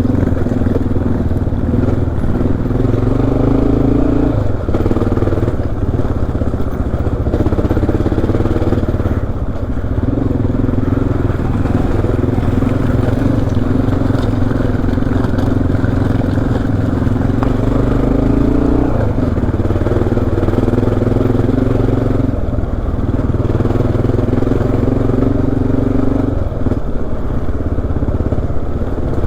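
Honda XR dual-sport motorcycle's single-cylinder four-stroke engine running under load while riding, its note stepping up and down every few seconds as the throttle opens and eases off.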